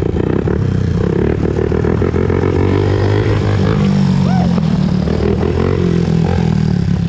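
Honda TRX400EX ATV's single-cylinder four-stroke engine running under way on a ride, its pitch stepping up about four seconds in.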